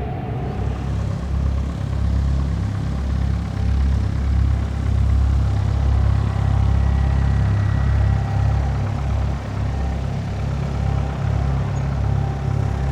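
Jet aircraft engines, a deep steady rumble that swells and eases through the middle, with a faint high turbine whine that slides slightly down in pitch.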